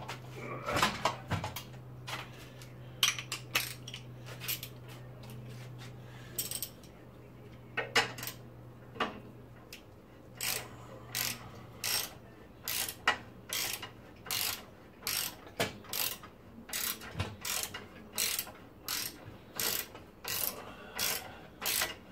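Ratchet wrench clicking as it winds a coil spring compressor's threaded rods, compressing a road spring. The clicks come irregularly at first, then settle into a steady rhythm of about one and a half a second. A steady low hum runs under the first half and fades out about ten seconds in.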